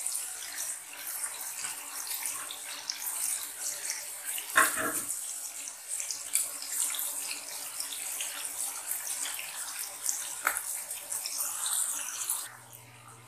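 Onion-and-spice masala sizzling and crackling in hot oil in a wok, with two brief knocks from the spatula against the pan. The sizzle cuts off near the end.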